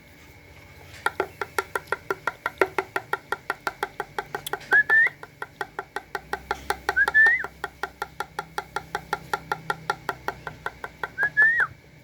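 Young spotted dove begging while being fed: a fast, even series of short squeaky peeps, about six a second, broken three times by a longer rising squeal.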